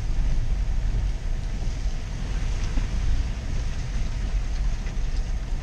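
Vehicle running: a steady low rumble with a hiss over it.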